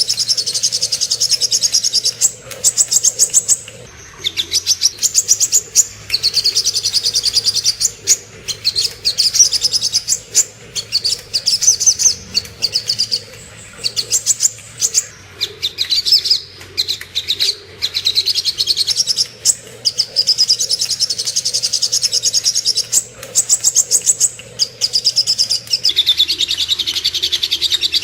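Sogok ontong (little spiderhunter) song: long runs of rapid, high, repeated chattering notes, a few seconds each, broken by short pauses.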